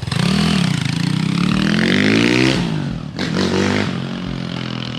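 Apollo RFZ 140cc pit bike's single-cylinder four-stroke engine, stock exhaust, revving: the pitch climbs steadily for about two and a half seconds, then drops off, followed by a second, shorter rev about three seconds in.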